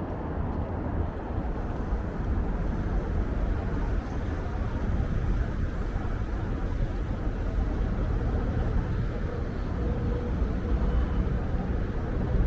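Strong wind buffeting the microphone as a steady low rumble, mixed with city street traffic.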